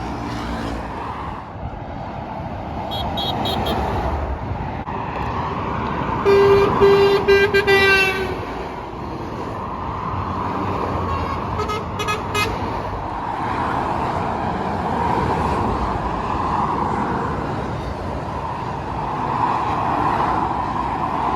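Road traffic passing steadily, with a vehicle horn sounding once for about two seconds near the middle, its pitch dropping slightly as it ends. There is also a brief series of short beeps a few seconds in.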